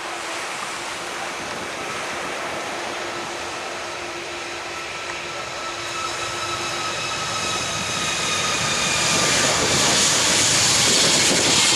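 Jet airliner engines growing steadily louder as the aircraft approaches. A whine of several tones drifts slowly down in pitch over a rising rush of noise.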